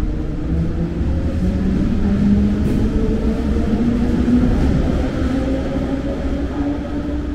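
Berlin S-Bahn electric train accelerating: a steady low rumble of the wheels on the rails, with the traction motors' whine rising slowly in pitch.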